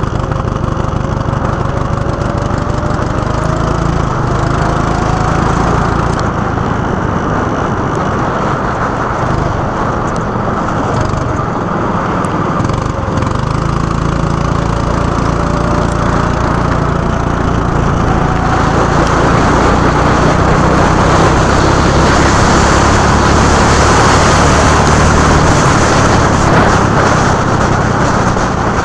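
Go-kart engine running hard on track, its pitch climbing as the kart accelerates, twice, with a loud rushing noise over it that swells near the end.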